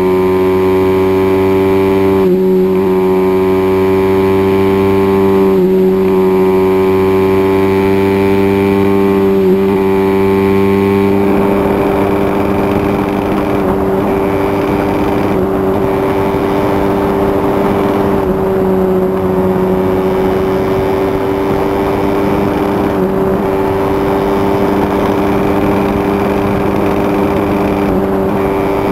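Turbocharged Honda CT110's single-cylinder four-stroke engine running flat out at a steady pitch, held at about eleven thousand rpm in third gear at around 80 mph. About a third of the way in, a rushing noise rises over it.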